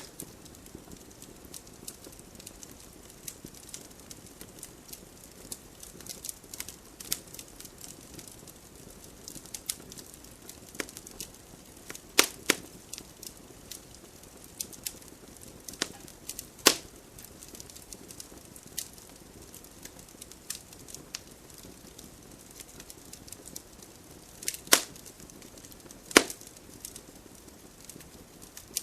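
Wood campfire crackling, with a constant patter of small snaps and a handful of louder sharp pops from the burning wood.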